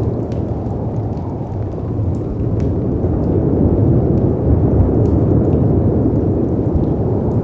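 Storm ambience: a deep, steady rumble of wind and sea surf that swells in the middle, with sparse faint crackles and pops from a wood fire.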